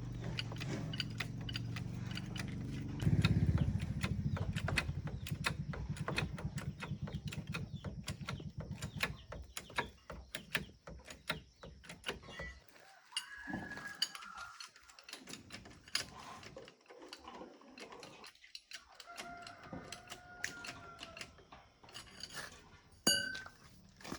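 Rapid, repeated mechanical clicking, as from hand tools being worked, over a low hum that grows louder about three seconds in and dies away after about nine seconds. A few short squeaky tones come in the second half.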